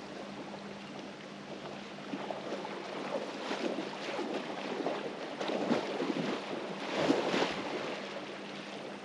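Lake water splashing and sloshing as a person wades in for a swim, building to a louder burst of splashes a few seconds in, then settling.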